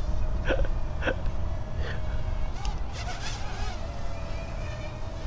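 Parrot Mambo mini quadcopter's propellers buzzing in flight, a steady whine that wavers slightly in pitch, with wind buffeting the microphone.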